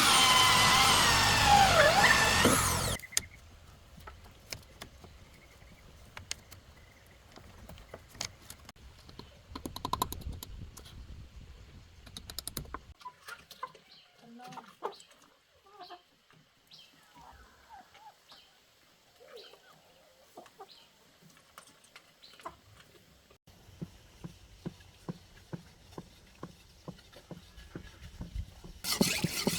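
Farmyard fowl calling, loudest in the first few seconds, then scattered short calls among light clicks and knocks.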